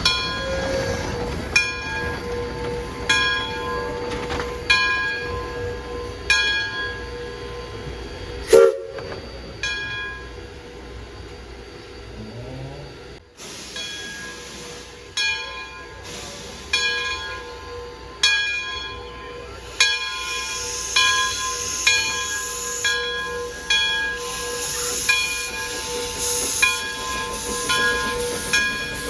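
Narrow-gauge steam logging locomotive: a ringing metallic strike repeats about every second and a half over a steady tone, with one sharp knock about a third of the way in and steam hissing through the latter part.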